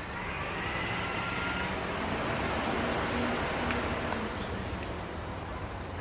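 Train going by: a steady rumble with a low hum, and a faint high whine that rises and then falls.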